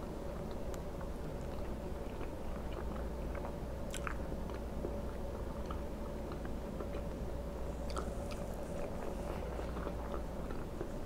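Close-miked chewing of soft fried egg with wet mouth clicks throughout, and a few sharper clicks about four and eight seconds in. A steady low hum runs underneath.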